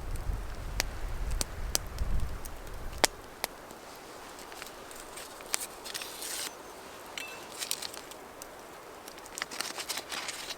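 Wood fire crackling, with scattered sharp pops, over a low rumble for the first few seconds.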